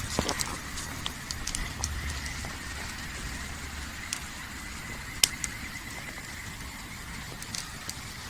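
Wood campfire crackling, with irregular sharp pops and snaps over a steady hiss; the loudest pop comes about five seconds in.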